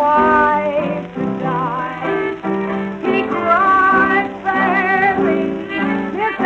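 Instrumental passage of a 1920s jazz-era band recording, with melody lines played over a walking bass and no singing.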